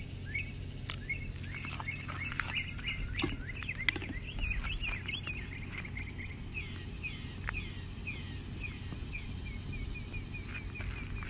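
Small birds chirping in quick, repeated down-slurred notes, settling into a fast, even series of chirps in the second half. A few sharp clicks come in the first few seconds.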